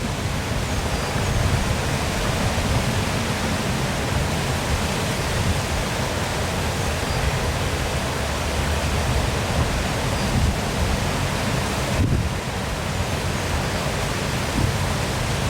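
Waterfall: water pouring and splashing in a steady rushing noise, with a deep rumble underneath.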